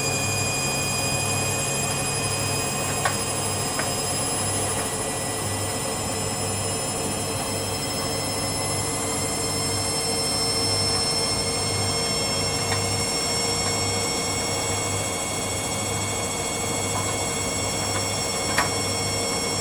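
Hoover Dynamic Next washing machine's drum spinning up between about 400 and 800 rpm: a steady run with several high whining tones that creep slowly upward in pitch over a pulsing low hum. The owner puts the screech at this speed down to a worn motor bearing.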